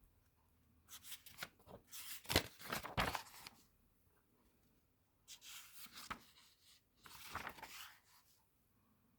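Pages of a 1970s newsprint comic book being turned and handled: three spells of paper rustling with a few sharp crackles, the longest about a second in.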